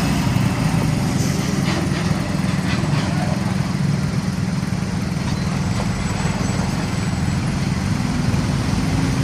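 Heavy diesel truck engines and road traffic: a steady low engine hum over a haze of traffic noise, with no single pass-by swell.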